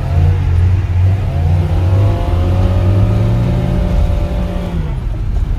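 Classic Lada sedan's engine revving hard while drifting on snow, heard from inside the cabin: the revs climb about a second and a half in, hold high, and drop away near the end.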